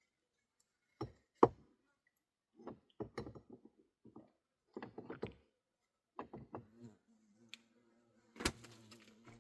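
A run of irregular knocks and thuds of hard objects being handled, some in quick clusters, the loudest about a second and a half in and another sharp one near the end, after which a faint steady hum sets in.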